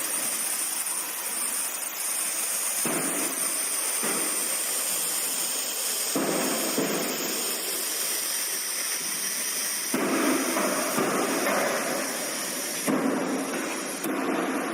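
Steady, loud hissing machine noise, changing in character abruptly several times.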